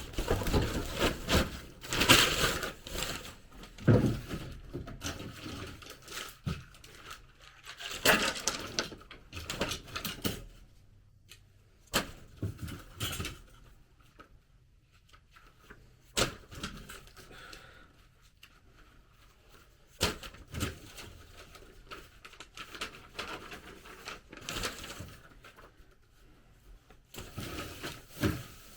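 Irregular clusters of knocks, clicks and rubbing handling noises, with quieter gaps between them.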